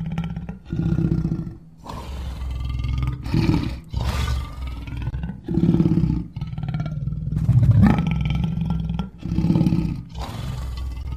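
Lion roaring: a run of about ten deep calls, each half a second to a second and a half long, one after another with short breaks between them.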